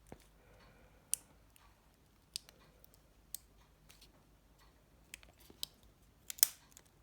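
Small plastic clicks and taps as parts of a Nokia 7373 are pressed into its housing, seven or so sharp clicks spread out, the loudest near the end. One side of the part won't clip into place.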